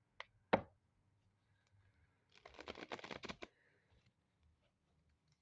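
Tarot cards being shuffled: a couple of light taps, then about a second of rapid riffling clicks near the middle.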